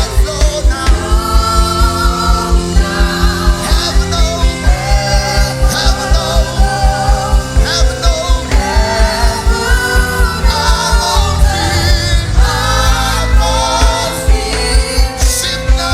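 Live gospel worship music: singing with wavering held notes over sustained chords and a steady low drum beat of about three beats a second.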